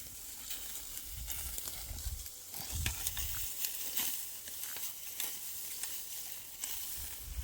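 Dry wheat stalks crackling and rustling as they are cut by hand with a sickle and gathered, many small snaps over a steady dry rustle.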